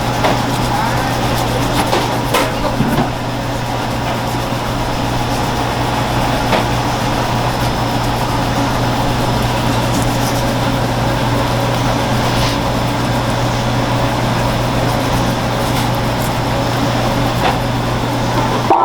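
Steady mechanical hum with a few light clicks and knocks.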